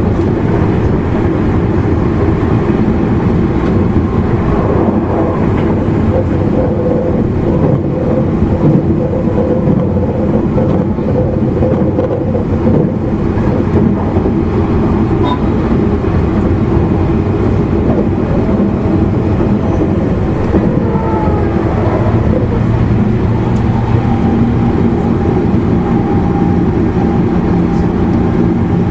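Running noise inside a motor car of an E259 series Narita Express train at speed: a steady rumble of wheels on rails with the hum of the traction motors. About twenty seconds in, the motor tones slide in pitch and then settle on a new steady tone.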